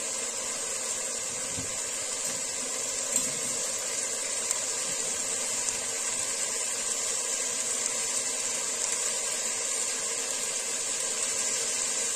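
Diced chicken sizzling in a wok as its water cooks off: a steady high hiss with a few faint pops.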